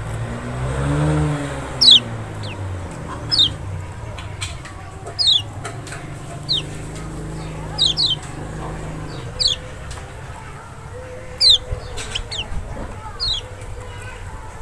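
Kecial, the Lombok white-eye (Zosterops chloris maxi), calling for birdkeepers as a lure to make caged birds answer. It gives short, high notes, each falling sharply, repeated about once a second.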